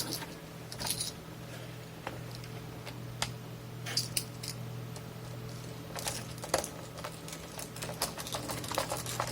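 Irregular light clicks and taps of small metal and plastic parts being handled as a Tascam Portastudio 414 MKII cassette multitrack is put back together, busier near the end, over a steady low hum.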